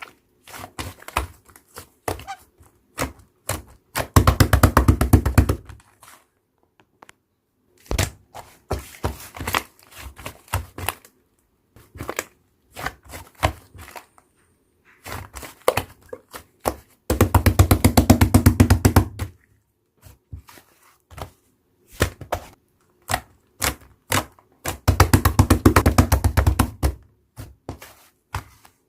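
Slime being handled by hand: scattered sticky clicks and pops, with three stretches of rapid crackling pops lasting a couple of seconds each.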